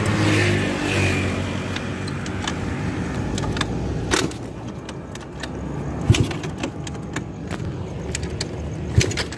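An engine idling with a steady low hum, loudest in the first second or so, under scattered clicks and knocks from handling keys and metal parts, the sharpest about six and nine seconds in.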